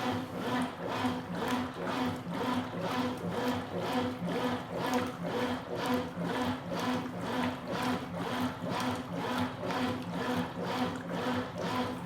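Consul Supercargo 8 kg (CWL08C) top-loading washing machine agitating a load of towels: the agitator swings back and forth and the water sloshes at about two to three strokes a second, with a steady hum under it. The owner finds it moving very well.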